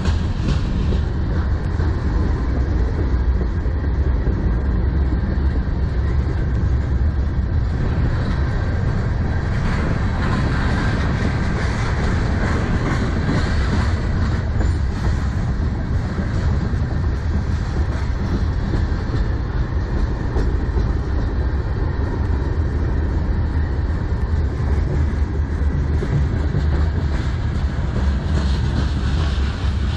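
Freight train cars rolling past at close range: a steady, loud rumble and clatter of steel wheels on the rails as a string of tank cars and covered hoppers goes by.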